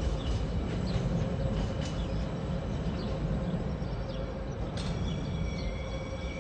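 TasRail freight train wagons rolling past: a steady low rumble of wheels on rail with a faint steady tone, easing off slightly. About five seconds in, thin high steady tones come in over the rumble.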